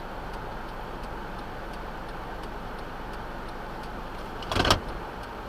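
Steady road and engine noise inside a moving car's cabin, with faint, regular ticking. About four and a half seconds in comes a short, loud thump.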